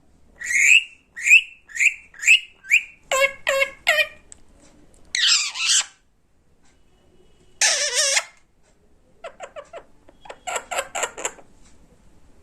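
Indian ringneck parrot calling: a run of about six short chirps, then harsher squawks and two rasping screeches, ending in a quick series of short notes.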